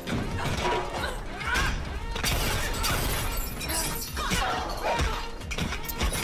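Action-film fight soundtrack: a rapid string of hits, clatters and crashing impacts over background music.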